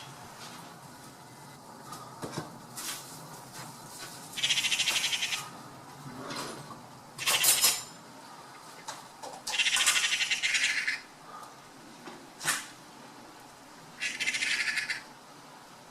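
Four high-pitched animal calls, each a rapidly pulsed buzz about a second long, spaced a few seconds apart, with a few faint clicks between them.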